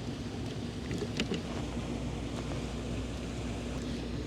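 Steady low wind and water noise around a fishing kayak, with a faint hum underneath and a few light clicks.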